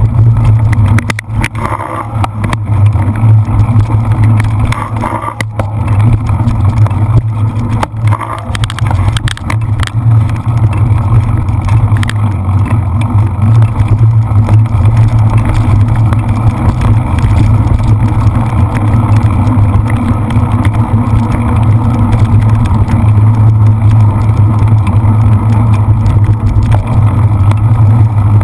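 Heavy, steady wind rumble on the microphone of a camera riding along on a cyclocross bike at race speed, with a few sharp knocks from the bike jolting over rough ground.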